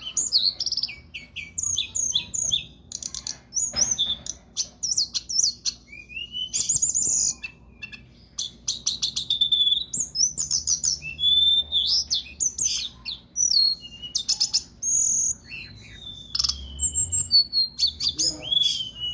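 A songbird singing continuously: a fast, varied song of chirps, quick up-and-down sweeps and rapid trills.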